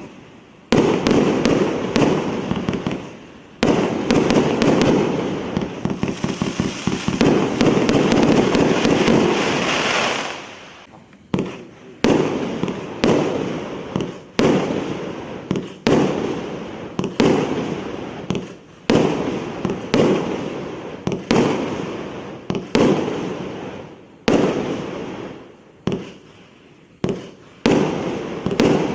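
A 348-shot multi-shot fireworks cake firing. For about the first ten seconds there is a dense barrage of rapid bangs and crackle. After that come single shots about once a second, each a sharp bang that fades over about a second.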